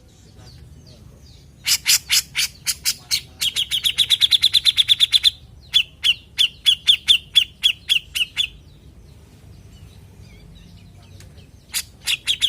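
Grey-cheeked bulbul (cucak jenggot) singing. About two seconds in comes a burst of sharp notes that runs into a fast string of notes. Slower repeated notes follow at about four a second, and a new burst begins near the end.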